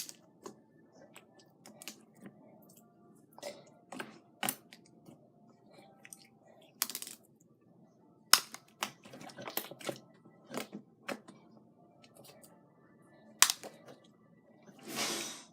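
Irregular sharp clicks and light taps of small plastic beads as they are picked out of a slime, with a brief rustling swish near the end.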